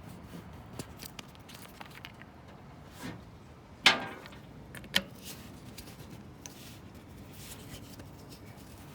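Hand tools working on a newly installed power steering pump: light metallic clicks, then a loud ringing clank about four seconds in and a sharp knock a second later, as a fitting is tightened.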